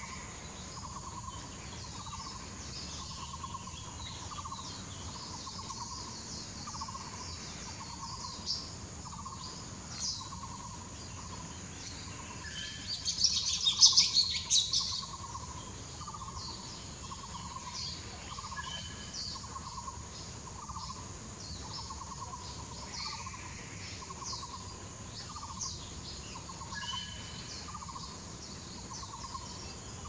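Birds calling in the trees: a low hooting note repeats about once a second, with scattered short high chirps. A loud burst of high, chattering calls comes about halfway through.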